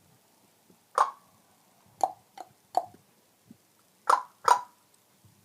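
Parrot clucking: six short, sharp clucks at uneven intervals, three close together around two seconds in and a quick pair near the end.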